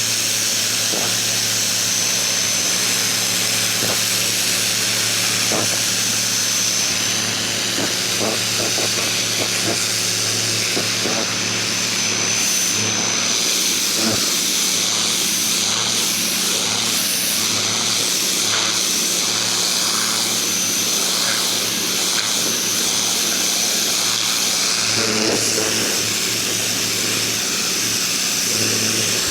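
Ryobi 2000 PSI electric pressure washer running steadily, a constant motor hum under the hiss of its water jet spraying.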